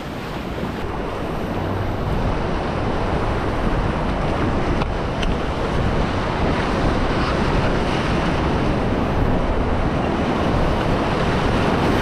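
Whitewater rushing steadily, a dense noise building slightly louder, with wind noise on the microphone.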